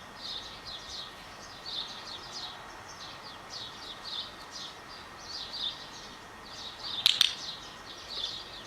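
Birds chirping in quick clusters of short high notes, over a faint outdoor hiss. A single sharp click about seven seconds in is the loudest sound.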